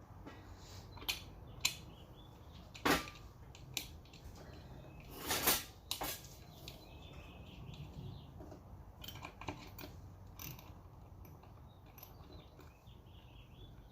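Scattered metallic clicks and clinks of small metal parts and tools being handled while reassembling an ATV's recoil pull-starter, with a longer, louder one about five seconds in.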